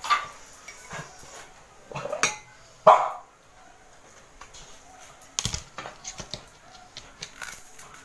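A dog barking a few separate times, the loudest bark about three seconds in, followed by a few light clicks.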